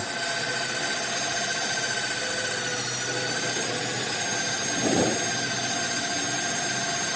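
A machine running steadily with a high whine over a hiss, and a brief louder noise about five seconds in.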